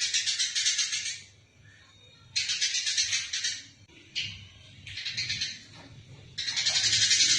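Eurasian tree sparrows chattering in rapid, harsh bursts of chirps, the agitated calls of sparrows fighting. A loud burst stops a little past a second in, shorter bursts follow with gaps between them, and a loud burst starts again near the end.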